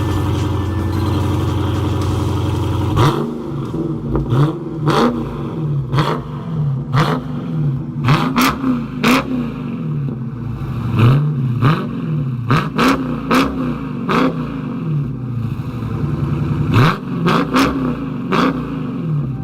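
Dodge Challenger Scat Pack's 392 (6.4 L) HEMI V8 through a Kinney's Tunnel Ram performance exhaust: a steady low drone for about three seconds, then a long run of quick throttle blips, the pitch shooting up and falling back about once a second, each with a sharp exhaust bark.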